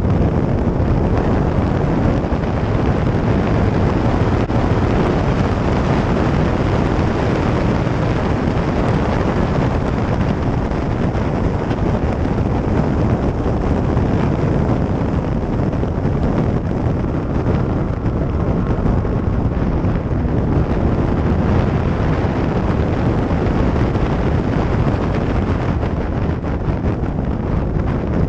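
A car driving fast on a race track, its running drowned in heavy wind buffeting on the microphone, steady throughout.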